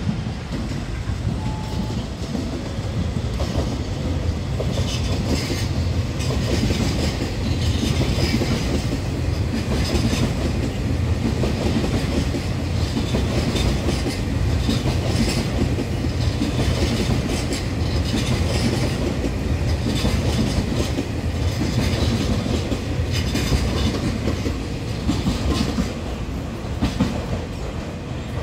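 Taiwan Railway EMU3000 electric multiple unit running through a station at speed without stopping: a steady rumble of wheels on rail with rapid clickety-clack over the rail joints, loudest through the middle and easing a little near the end.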